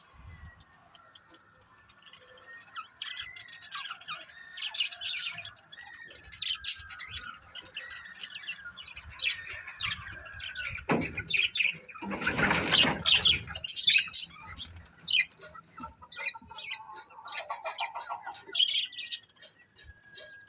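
Budgerigars chattering: a wavering warble, with many short, sharp chirps over it. About halfway through comes a louder rustling burst lasting a couple of seconds.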